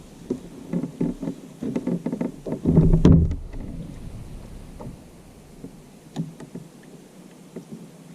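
Irregular knocks and rattles on a plastic fishing kayak (a Viking ProFish 400), the loudest a heavy thump about three seconds in, growing quieter after about five seconds.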